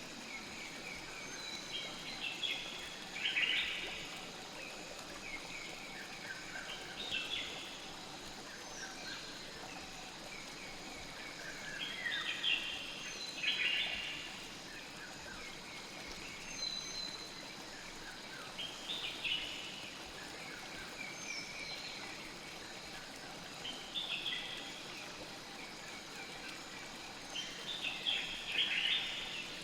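Night-forest nature ambience: a steady rush of flowing river water, with birds giving short calls every few seconds and a faint, steady high-pitched insect trill underneath.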